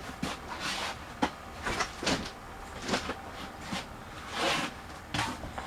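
Irregular handling noises: a string of light clicks and knocks mixed with brief rustles, as of bedding and gear being moved about.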